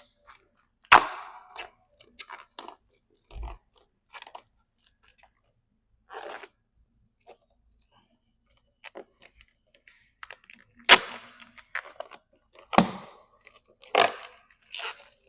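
Vinyl wrap film being picked at and pulled off a car's paint: irregular crackles and sharp snaps, the loudest about a second in and three more close together near the end.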